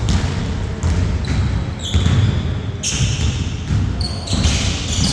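Basketball bouncing on an indoor court, a thud about once a second, with short high squeaks of sneakers on the floor several times.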